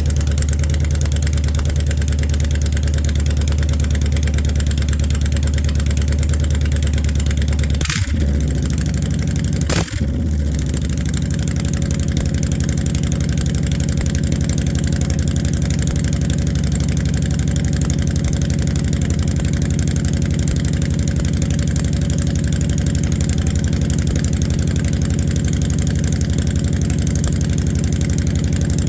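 Honda Fury 1300's V-twin engine idling steadily while it warms up after a cold start. Two brief knocks come around eight and ten seconds in, after which the engine note changes. It does not settle down to its normal idle, a fault the owner has noticed since late last season and wants a shop to check.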